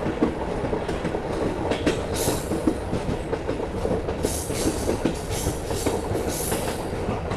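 Vistadome passenger coach running along the track: a steady rumble with wheels clicking over the rail joints, and a few brief swells of hiss.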